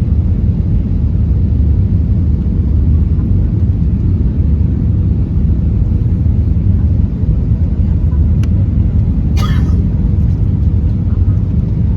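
Steady low rumble of an Airbus A320 on its landing approach, with one short rattle about nine and a half seconds in.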